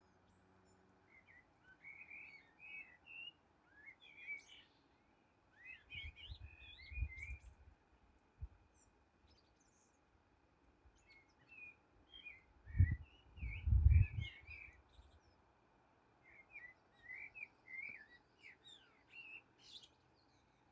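A small songbird chirping and twittering in quick, high phrases that come in four bouts. Twice, a low rumble briefly rises louder than the birdsong.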